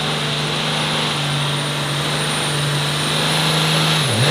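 Pickup truck engine held at high, steady revs under load while pulling the sled, with a constant high-pitched turbo whistle. Near the end the revs drop sharply and then rise again.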